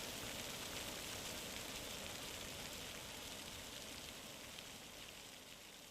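Steady hiss of hot water spraying and splashing from Fly Geyser's jets, fading out slowly.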